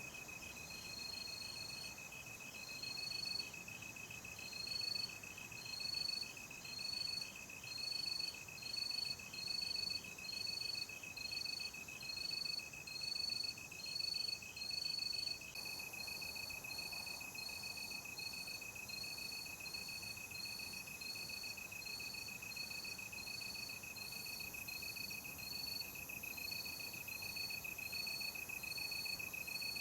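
Night insects, crickets or similar, calling in chorus: a steady high trill runs underneath, and a higher, louder chirp repeats about once a second over it, growing a little quicker and softer about halfway through.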